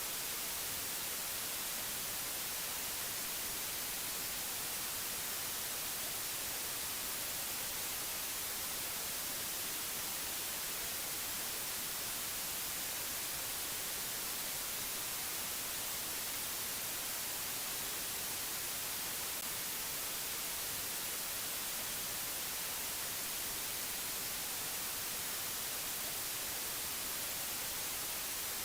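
Steady white-noise hiss, even and unchanging, strongest in the treble, with nothing else over it.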